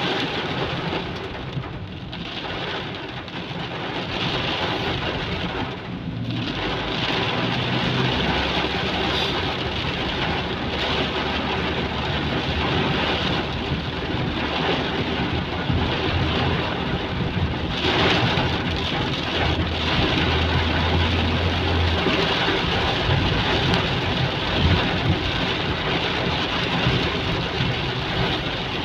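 Heavy rain pouring down steadily, with a low rumble underneath for a stretch in the middle.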